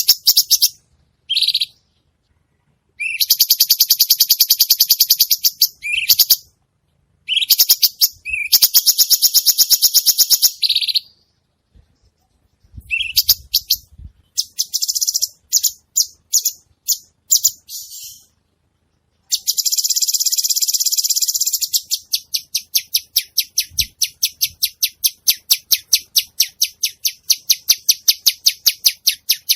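Cucak cungkok singing energetically: bursts of fast, buzzy, high trills, some held for about two seconds, broken by short pauses, then a long run of rapidly repeated notes near the end.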